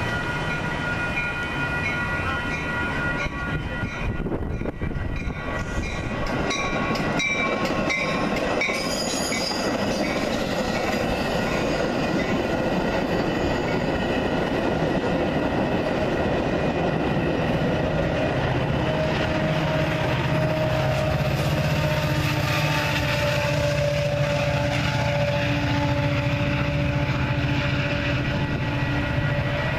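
Metra commuter train of bilevel gallery cars rolling past, a steady loud rumble of wheels and running gear on the track.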